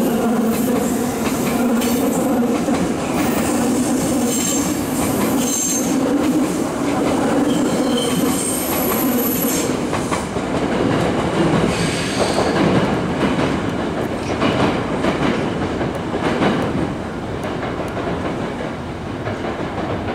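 Nankai electric commuter train running through the station: a steady rumble of wheels on rail, clicking over the rail joints, with high wheel squeal in the first half. The sound grows quieter near the end as the train moves off.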